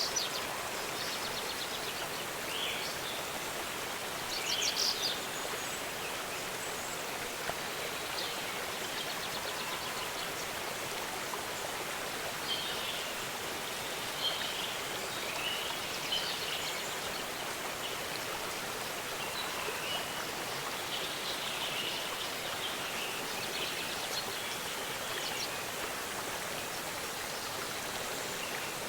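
Waterfall: a steady rush of falling water, with birds chirping on and off over it.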